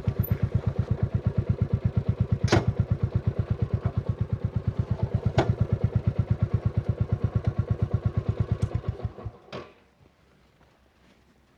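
Royal Enfield Classic 350's single-cylinder engine idling with an even thump, then switched off about nine seconds in, the thumps dying away. Sharp clicks stand out twice while it idles and once just after it stops.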